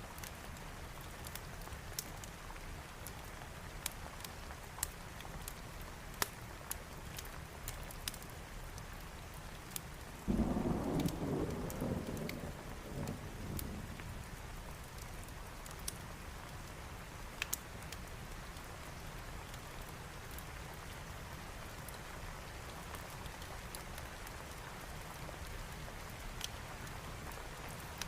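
Steady rain with scattered sharp crackles. About ten seconds in, a thunderclap breaks in suddenly and rumbles low, fading away over the next few seconds.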